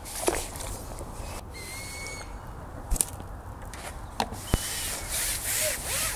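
Birds calling with short whistled notes, over a few sharp light knocks and some rustling that grows in the second half, from fishing tackle being handled.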